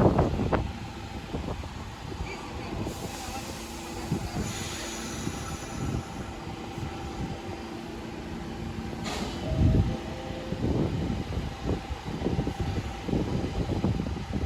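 New York City subway train at a station platform: a steady hum with a burst of hiss about three seconds in, then a loud thump near the middle and a run of low knocks and rail clatter toward the end.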